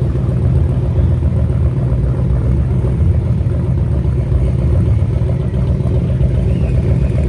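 A car engine running steadily at idle close by: a loud, low exhaust rumble.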